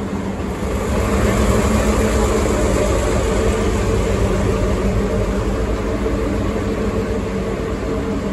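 Sagano scenic trolley train running: a steady, loud rumble of wheels on rails with a low, even engine drone, heard from aboard. It gets louder about a second in.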